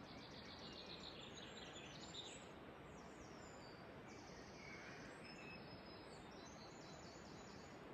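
Faint forest ambience: a soft hiss with small birds' high-pitched calls repeating throughout.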